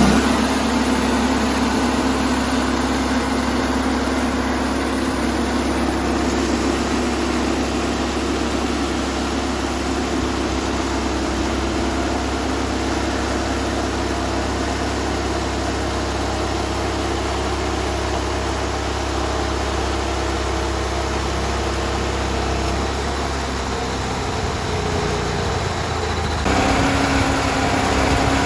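Portable sawmill's engine running steadily as the blade cuts through a black walnut log. The sound shifts and grows a little louder near the end.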